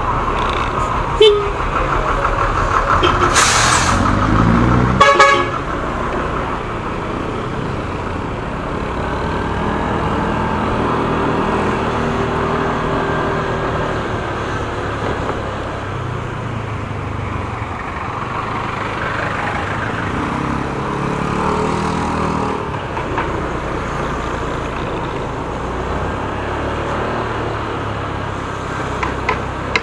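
Motorcycle riding in city traffic: engine running with steady road and traffic noise. In the first few seconds there is a short loud hiss, then a horn honk.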